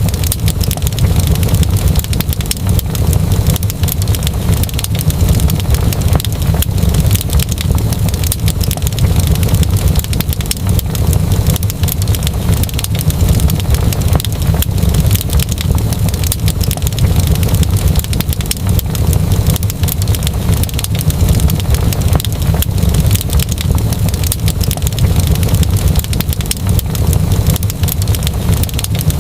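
Fireplace fire crackling, with many quick irregular pops and snaps over a steady deep rumble.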